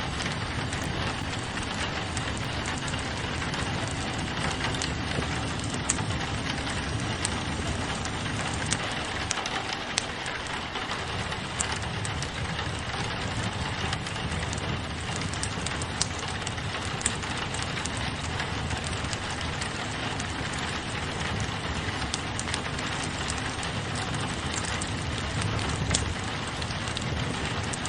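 Steady rain on a window mixed with a wood fire in a fireplace, with scattered sharp clicks and pops over the even hiss.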